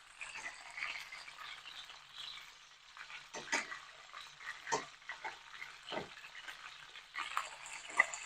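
Chicken pieces frying in hot oil in a pan, a steady sizzle, broken by a few sharp clacks as more drumsticks go into the pan.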